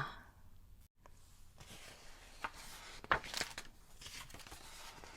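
Faint rustle and a few soft clicks from the paper pages of a picture book being handled and turned.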